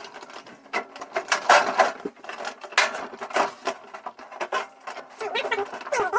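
Irregular clicks, knocks and rattles of metal and plastic parts being handled and worked on while a microwave oven is taken apart.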